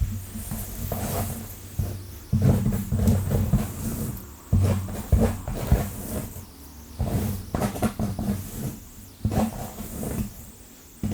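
Long fingernails scratching fast through hair and scalp close to the microphone, in repeated bursts of scratchy rustling with low rumbling handling noise and small clicks.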